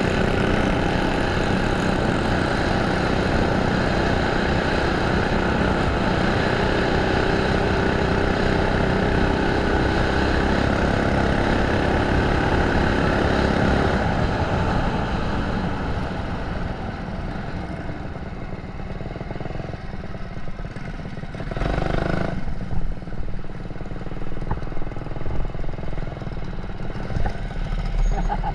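Small single-cylinder Predator engine of a mini bike running hard at a steady high speed, then easing off past the halfway point. A brief rushing burst comes about three quarters of the way through.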